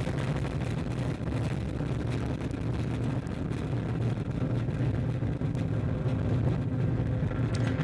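Ariane 5 rocket's solid boosters and Vulcain core engine roaring off the pad in the first seconds of flight: a steady, crackling, deep rumble.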